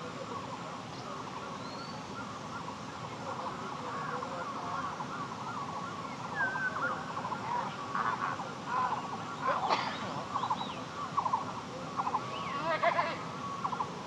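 Many birds calling over one another in a steady chorus of short, wavering chirps and whistles. Louder, sharper calls come through in the second half.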